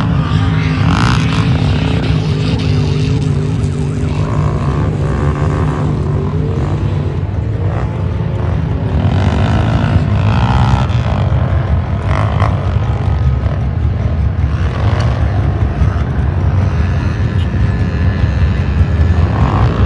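Car engines running and revving, with a loud, continuous low rumble and engine notes that slide up and down in pitch.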